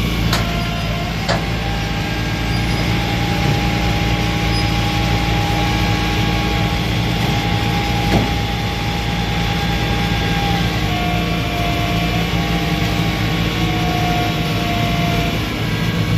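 Car-carrier truck running steadily, with a steady whine over the engine that wavers in pitch about eleven seconds in, and a few sharp clicks.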